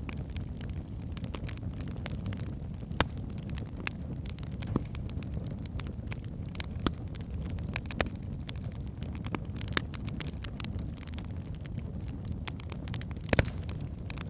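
Wood fire burning in a fireplace: a steady low rumble of flames with irregular sharp crackles and pops from the logs, a few louder pops scattered through, the loudest near the end.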